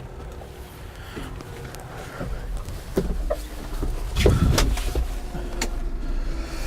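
Tractor diesel engine starting about two seconds in and running, with a few sharp clicks and knocks over it.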